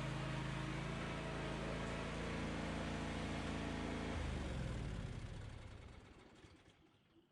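Craftsman Z560 zero-turn mower's engine running steadily, then shut off about four seconds in. It spins down, dropping in pitch and fading out over the next few seconds.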